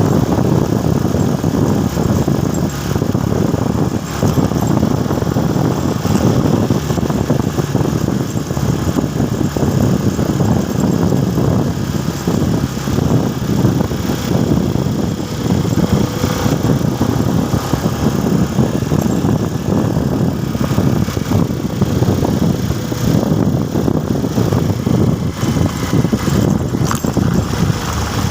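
Motorcycle running steadily while being ridden on the road, a loud continuous engine and road noise.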